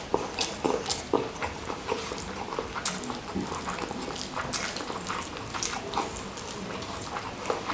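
Close-miked eating of rice with salted-squid sambal: irregular wet chewing and lip-smacking clicks, several a second.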